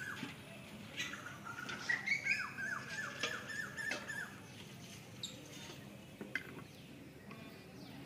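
A bird calling: a rapid series of short notes, each dropping in pitch, about four a second, broken by a rising note. The series stops about four seconds in.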